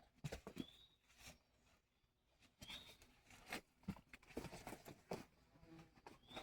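Faint scattered knocks and clicks, with a short high rising chirp heard about three times.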